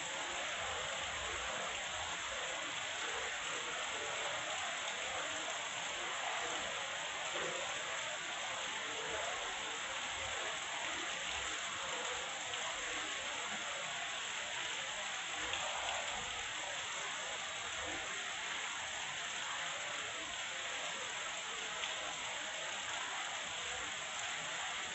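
Heavy rain falling steadily, an even hiss with no breaks or thunder claps.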